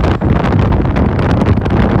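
Wind buffeting the microphone on a moving motorcycle taxi, a loud rumbling rush with crackling gusts, over the motorcycle's running noise.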